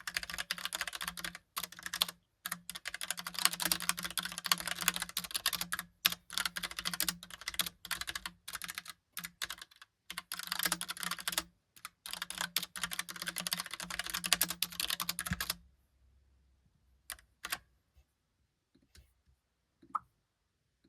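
Fast, continuous typing on a Logitech Pop Keys typewriter-style mechanical keyboard, with brief pauses. The typing stops about three-quarters of the way through, leaving a few scattered key clicks.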